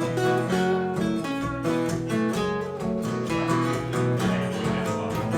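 Instrumental break of a song: acoustic guitar strummed in a steady rhythm, with sustained pitched accompaniment.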